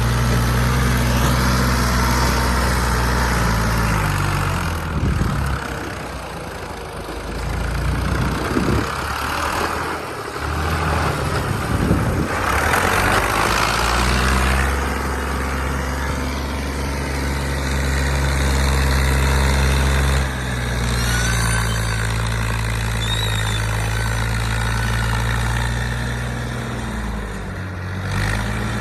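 Large vehicle engine running steadily, its speed shifting up and down several times.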